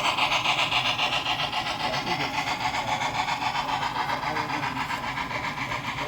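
Model train running on the layout's track: a rapid, even rhythmic clatter of wheels and drive, about five or six beats a second, slowly fading.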